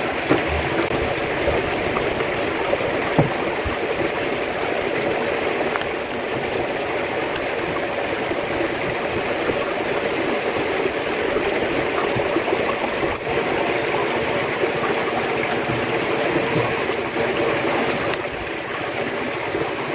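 Steady rushing of flowing water, unbroken and even in level, with a few faint ticks.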